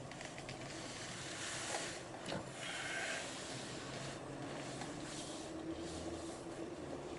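Faint outdoor background noise, a steady hiss with a low steady hum typical of road traffic, with a single light knock about two seconds in.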